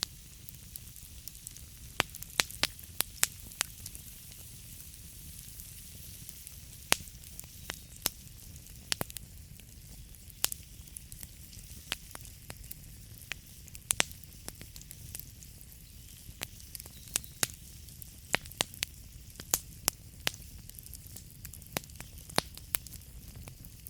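Wood fire burning in a fireplace: a steady hiss with a low rumble, and irregular sharp crackles and pops of burning wood, several a second at times.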